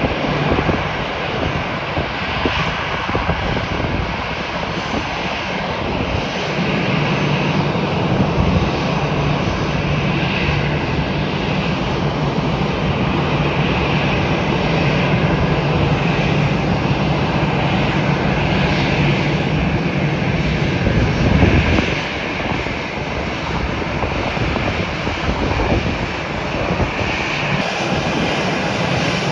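Airliner jet engines running: a loud, steady rush of engine noise. A low hum joins in a few seconds in and drops away about two-thirds of the way through.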